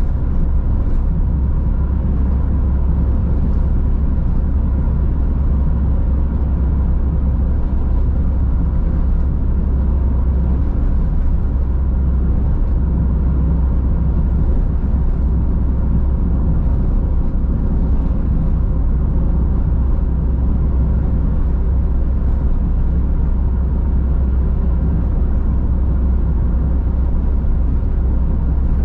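Car cruising along a road: a steady low rumble of engine and tyre noise with a faint steady hum, unchanging throughout.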